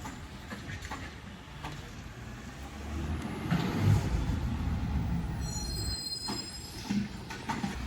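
Garbage truck running, with a low mechanical rumble and a brief high-pitched squeal about five seconds in.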